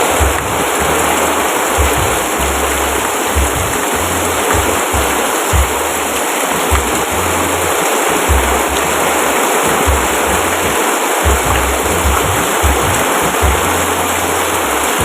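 Steady heavy rain, a dense even hiss, with low thumps coming and going underneath.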